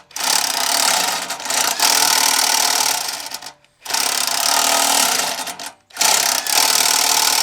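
A power tool run in three bursts of about two to three seconds each, with short pauses between.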